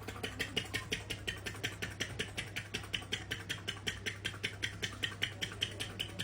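A rapid, even run of sharp mouth clicks, about six a second, made by a vocal sound-effects performer, over a steady low hum.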